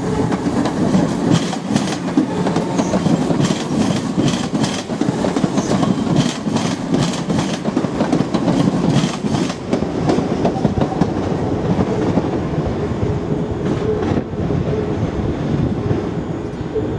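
Class 314 electric multiple unit running past close by over pointwork, its wheels clattering over rail joints and crossings in an irregular run of clicks over a steady rumble. The clicks thin out after about ten seconds.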